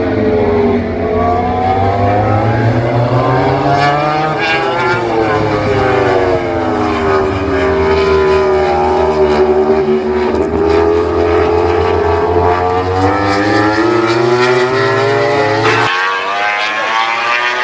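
MotoGP racing motorcycle engines running past on the circuit, their pitch rising and falling several times as the bikes go by and change speed.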